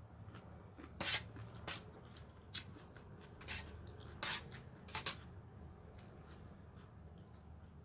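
Crisp crunching as raw vegetable salad of water spinach and carrot is bitten and chewed: about six sharp crunches in the first five seconds, then only faint chewing.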